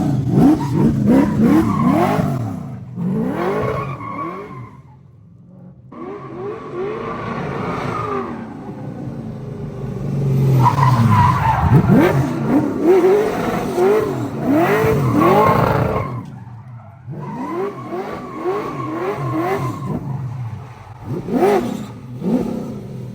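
LS3 V8 drift car being drifted: the engine revs climb and drop over and over with tyre squeal, easing off twice before coming back on.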